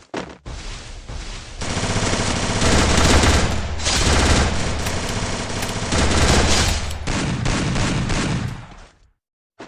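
A dense, unbroken string of rapid sharp bangs, like sustained automatic gunfire, loud for most of the time and stopping suddenly about nine seconds in.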